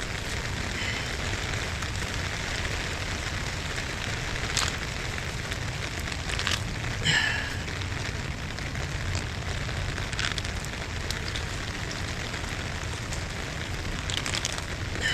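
Steady rain falling, with a few short sharp ticks and clicks scattered through it.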